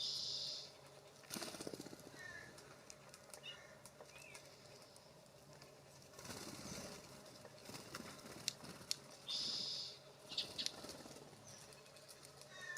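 Small birds at a bird bath: bursts of wing fluttering with a few short chirps. Two brief, loud hissing bursts stand out, one at the very start and one about three-quarters of the way in.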